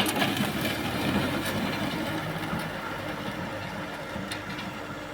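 Kubota M6040S tractor's diesel engine running steadily under ploughing work. It comes in abruptly at the start, loudest in the first second or two, then settles.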